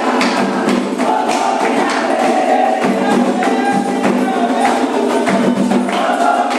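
Candomblé ritual music: a fast rhythm of hand percussion and struck or shaken instruments under group singing.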